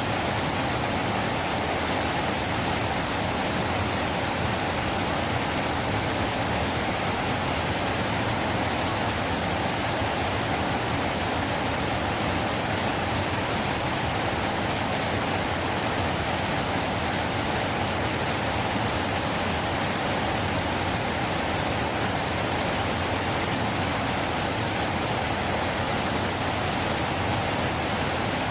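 River water rushing steadily, an even unbroken noise with no separate splashes or events.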